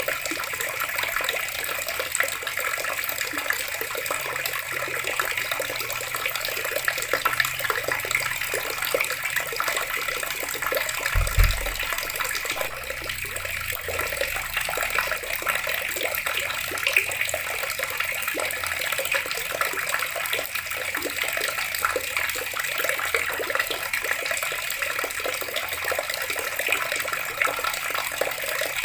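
Water running steadily from a tap, an even splashing rush, with one brief low thump about eleven seconds in.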